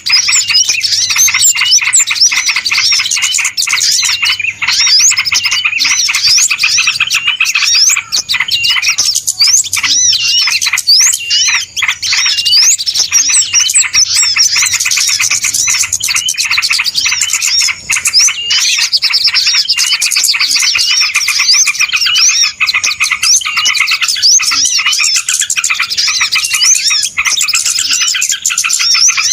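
A dense, busy chorus of many small birds chirping and twittering at once, with calls overlapping without pause: a bird-lure ('pikat ribut') recording made to call in small birds.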